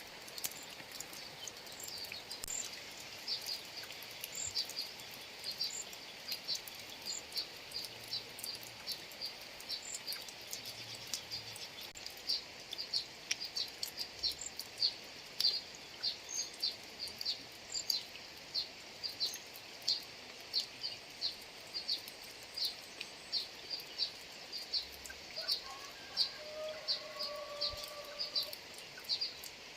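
Steady rain hiss with scattered drop ticks, over which a high chirping call repeats about twice a second. Near the end a short, lower, steady-pitched call joins in.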